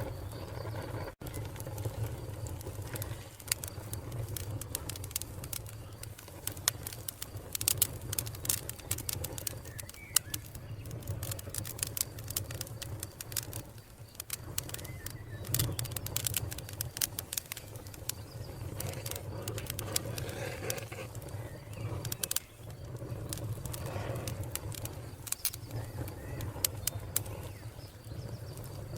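Wood fire crackling with frequent sharp, irregular pops over a steady low rumble, with birds calling faintly in the background.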